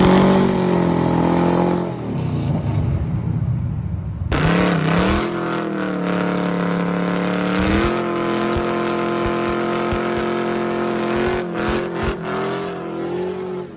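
Muscle car engine running loud with a lumpy idle; about four seconds in the sound switches abruptly to another engine, which revs up briefly twice and then holds a steady pitch.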